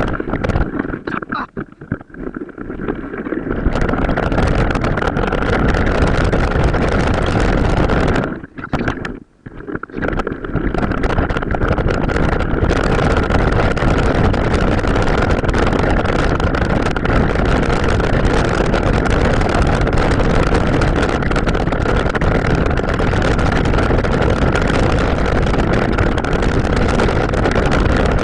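Riding sound of an off-road bike played back at several times normal speed: constant wind buffeting on the microphone and the rush of tyres and drivetrain, with a steady whine running through it. It drops away sharply twice, briefly near the start and again about a third of the way in.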